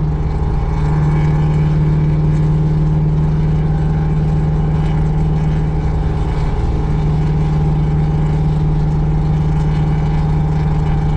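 Vehicle engine running at a steady speed, a loud, even low drone that holds one pitch.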